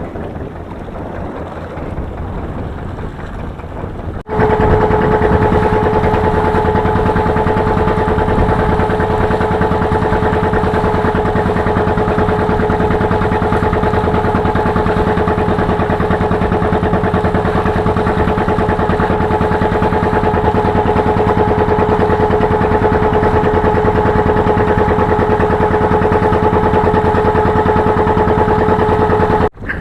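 Wind buffeting the microphone, then, after an abrupt cut, a boat's engine running at a constant speed with a steady whine, until it cuts off abruptly near the end.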